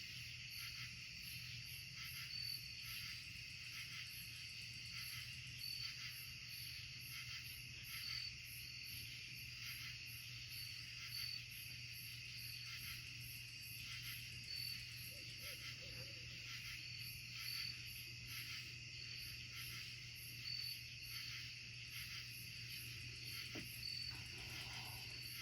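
A chorus of night insects such as crickets: steady high trilling with a fast pulsing buzz above it and a short chirp every second or two.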